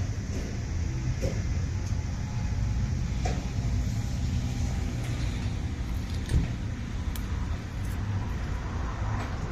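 Steady low rumble, with a few faint clicks and one short knock about six seconds in.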